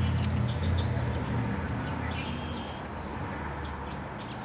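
A vehicle engine running with a low, steady hum that fades away over the first three seconds. A bird chirps faintly about two seconds in.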